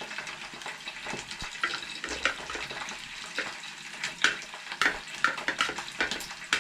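Hot oil sizzling with irregular sharp crackles and pops: chicken frying in a pan.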